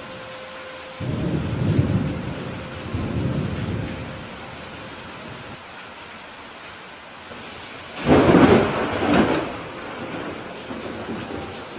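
Steady rain falling during a thunderstorm. A low rumble of thunder rolls in about a second in and fades over a few seconds, then a sudden, louder and sharper thunderclap breaks about eight seconds in.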